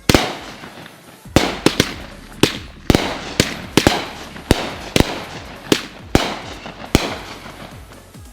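Consumer aerial fireworks (cakes and mortar shells) going off in quick succession: a string of sharp booming reports, one or two a second, each trailing off in a crackling echo.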